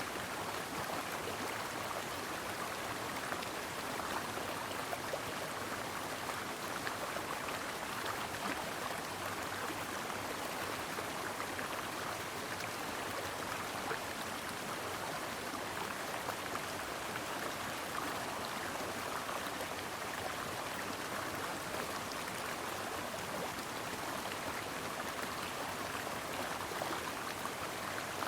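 A mountain stream running steadily, a continuous rush of water with fine splashing detail and no breaks.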